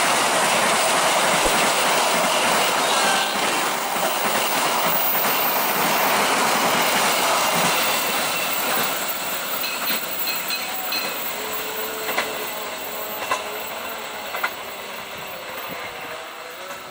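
Passenger train coaches rolling by on steel rails, wheels clattering over the rail joints, the noise fading steadily as the train moves away. A few sharper wheel clacks stand out late on.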